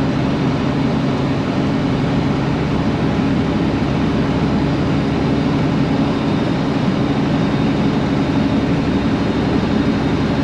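Detroit Series 60 12.7-litre diesel of a 2000 International 9900ix truck running steadily at highway cruise, a constant low drone over road noise, heard from inside the cab.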